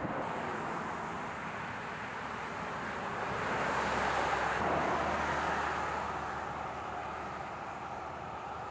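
Road and wind noise of a vehicle driving, a steady rushing that swells louder in the middle and then eases back.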